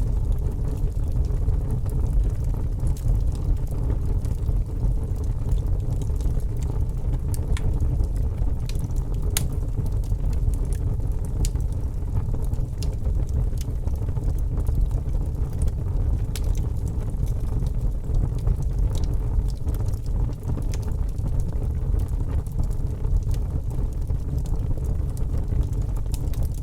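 Wood fire crackling in a fireplace: irregular sharp pops and crackles over a steady low rumble.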